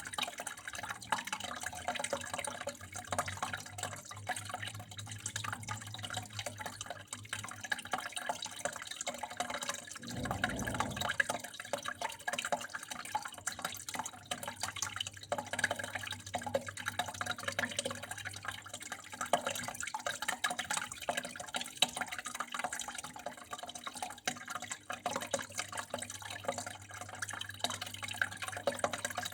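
Water flowing and trickling steadily, with many small drips and splashes, and a brief low rumble about ten seconds in.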